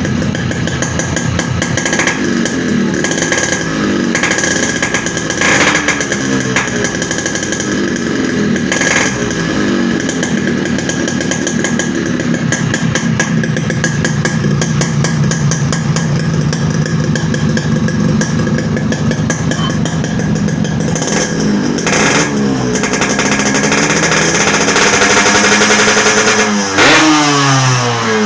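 Yamaha RX-King two-stroke single-cylinder engine running through a hollowed-out exhaust muffler, blipped again and again so the revs rise and fall. It holds steadier through the middle, then is revved quickly and hard several times near the end.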